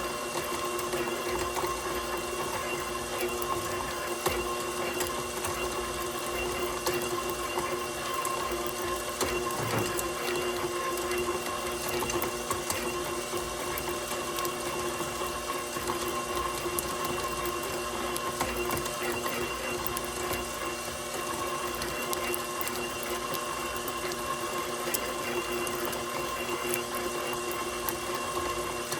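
KitchenAid Professional 6000 HD stand mixer's DC motor running steadily with a constant-pitched whine while its flat beater creams cold butter in the bowl.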